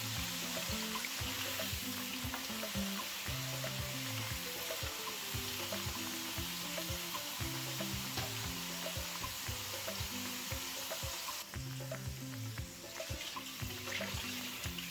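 Sliced green plantains deep-frying in hot oil: a steady sizzle. About eleven seconds in the sizzle thins and separate crackles and pops stand out.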